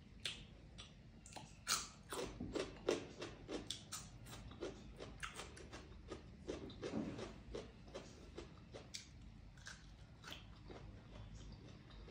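A person chewing food with open-mouthed wet smacks and clicks, many in quick succession and busiest in the first few seconds.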